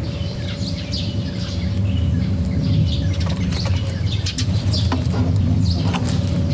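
Small birds at a feeder chirping, with wings fluttering and a few sharp clicks about five and six seconds in, over a steady low rumble.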